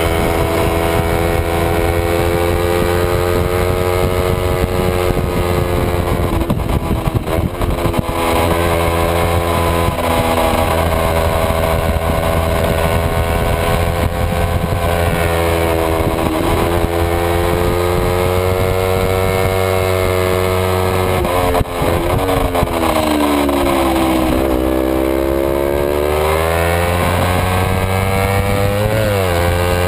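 Kawasaki Ninja 250 parallel-twin engine at high revs on a race lap, heard from onboard the bike. Its pitch falls and climbs with braking and gear changes, dipping deepest and climbing back about three-quarters of the way through, with a quick drop and rise near the end.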